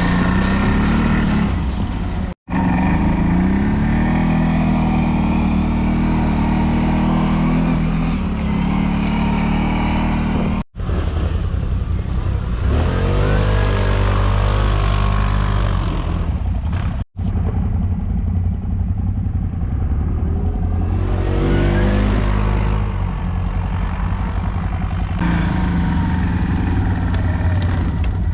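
ATV (quad bike) engines running and revving while riding through snow, pitch rising and falling with the throttle. The sound breaks off briefly three times where separate clips are cut together.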